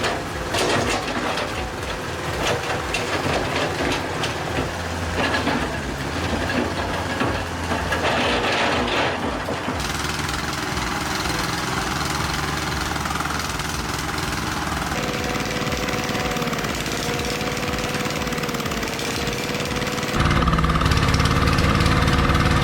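Heavy-equipment engines running, with the sound changing abruptly about ten, fifteen and twenty seconds in as one clip gives way to the next. It is loudest and steadiest near the end.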